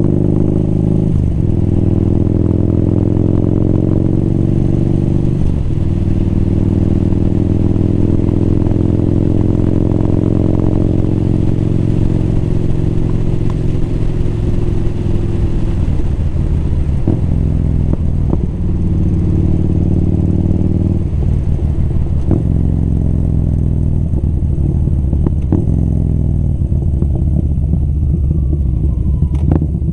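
Motorcycle engine running under way, its note breaking off and picking up again several times, lower and less even in the last third. A few sharp clicks rise over it in the second half.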